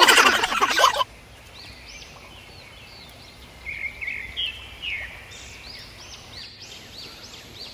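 A loud, rough rattling burst lasting about a second at the start, then a bird calling in a run of short high chirps, each rising and falling in pitch. The chirps come more often toward the end.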